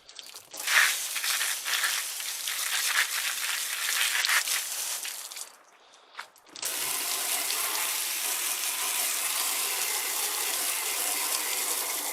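Water spraying from a garden hose onto wooden steps to rinse off bathroom cleaner and scrubbed-loose mildew. An uneven spray for about five seconds, a brief stop, then a steady spray from about halfway through.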